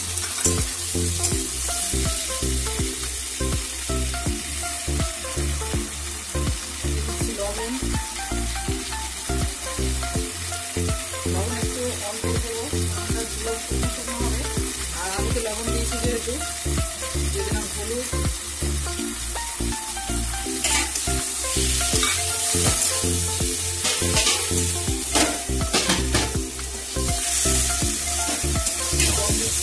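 Onions, potatoes and tomato sizzling in hot oil in a metal kadai with freshly added ginger-garlic-chili paste, stirred with a metal spatula that scrapes against the pan, most sharply a little past the middle. Background music with a steady beat runs underneath.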